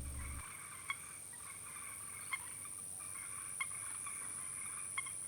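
Faint marsh ambience: a short animal call repeats four times, about every second and a quarter, over a steady high insect-like hum.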